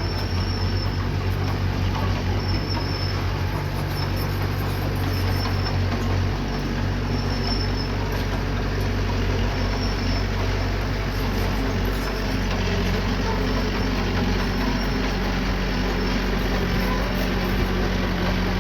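Diesel engine of heavy earthmoving equipment running steadily under work, its pitch shifting about twelve seconds in. A faint short high chirp repeats about once every second or so.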